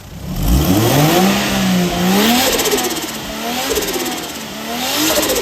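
Turbocharged car engine revved hard several times, its pitch climbing sharply, holding and climbing again, with a loud rushing hiss of air over the engine note.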